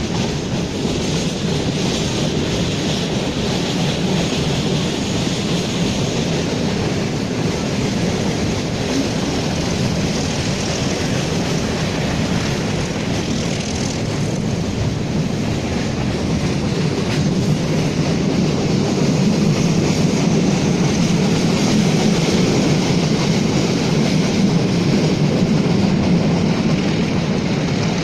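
Metre-gauge train running along the track with a steady rumble of wheels on rails, growing a little louder in the second half.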